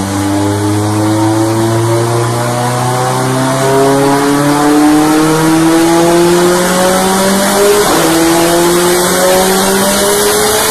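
Car engine at full throttle under load, its pitch climbing slowly and steadily for about eight seconds, dipping briefly, then climbing again.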